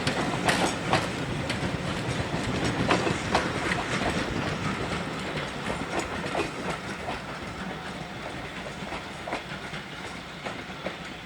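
Train wheels rolling over rail joints, a clickety-clack of irregular clicks over a steady rumble, fading as the train moves away.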